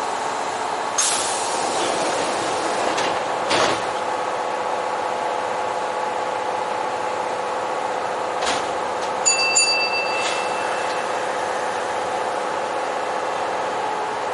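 Kintetsu electric train heard from the cab: a steady electrical hum, broken by several short bursts of hiss and a few brief high electronic beeps about nine seconds in.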